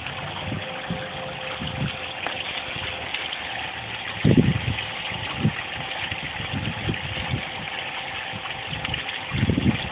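Koi pond waterfall splashing steadily, with a faint steady hum under it and short low rumbles, the strongest about four seconds in and again near the end.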